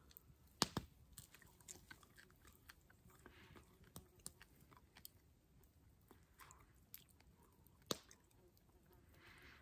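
Faint crunching of a crisp, butter-fried trout tail being chewed, like a chip. Scattered small crackles, with two sharp crunches about half a second in and another near the end.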